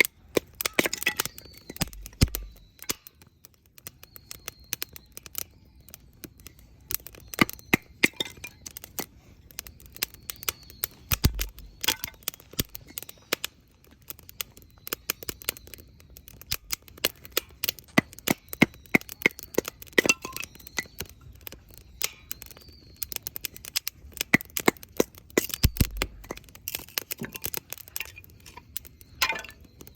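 Wood campfire crackling, with frequent sharp snaps at irregular intervals.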